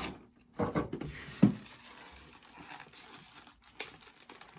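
Packaging being handled: crinkling and rustling of wrapping and box material, with a sharp knock about a second and a half in.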